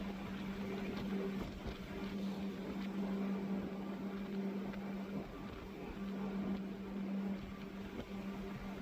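Boat engines running steadily under way: a constant low hum over a noisy hiss.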